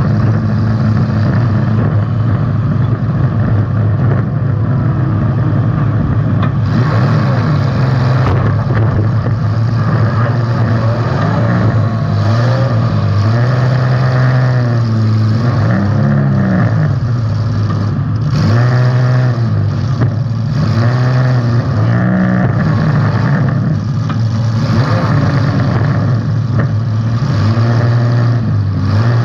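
Demolition derby car's engine running hard, revving up and falling back several times.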